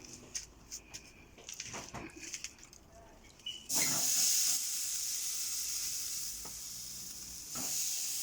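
Marinated chicken sizzling on a hot charcoal barbecue grill: after a few light knocks and clicks, a steady high sizzle starts suddenly about a third of the way in and swells again near the end as more of the meat goes onto the grill.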